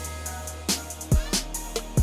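Background music with a drum-kit beat: kick-drum thumps, snare and hi-hat hits over held deep bass notes.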